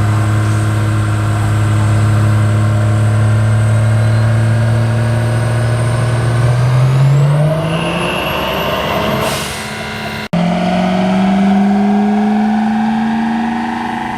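Diesel truck engine held at a steady speed, then revving up, with a high whistle climbing alongside it and a short rush of air near the top. After a break, the engine runs again with its pitch slowly rising.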